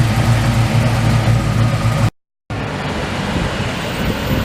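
Car engine idling steadily with a deep, even hum. About two seconds in it cuts to a brief moment of silence, after which a noisier, rougher engine sound takes over.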